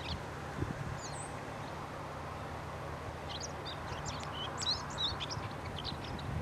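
Small birds chirping: short, high calls, sparse at first and clustered a little past the middle, over a steady low background hum.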